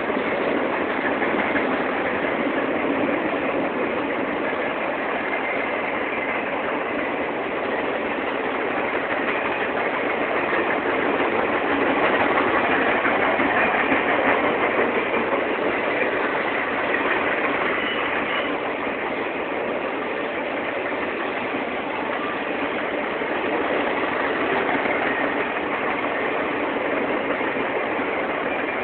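Norfolk Southern Triple Crown RoadRailer freight train rolling past, a steady, continuous train noise with faint high tones coming and going.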